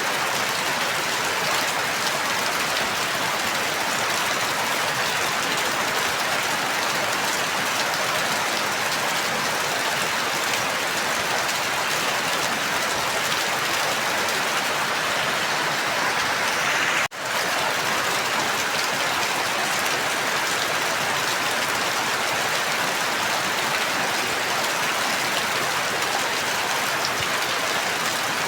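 Steady, even rainfall that goes on unbroken except for a momentary drop-out about two-thirds of the way through.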